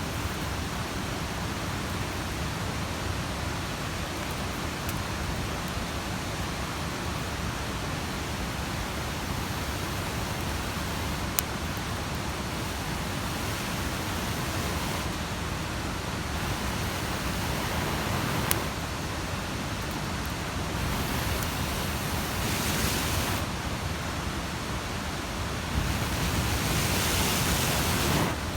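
Steady rushing of a mountain stream, with two sharp clicks, one about halfway in and one about two-thirds in.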